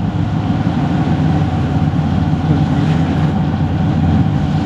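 Motorcycle engine running steadily while riding, with a constant hum of wind and road noise.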